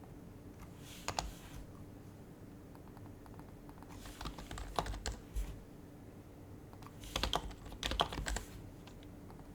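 Typing on an HHKB Professional HYBRID Type-S keyboard with its quiet Topre keys: three short bursts of keystrokes, about a second in, in the middle and near the end, with pauses between them.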